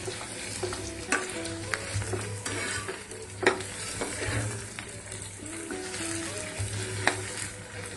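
Diced onions, tomatoes, garlic and green chillies sizzling in butter in a kadhai while a spatula stirs them, clicking sharply against the pan every second or so. The onions have just turned translucent and the tomatoes have only just gone in.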